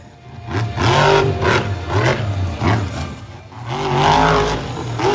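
Monster truck engine revving hard in two surges, one about a second in and one near four seconds, its pitch rising and falling each time.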